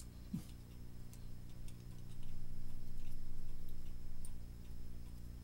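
Clock ticking faintly, about one to two ticks a second, over a steady low electrical hum.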